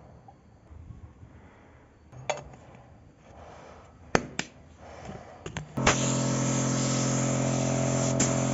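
A few handling knocks and clicks, then near the end an electric power tool's motor switches on and runs at a steady hum with a hiss over it.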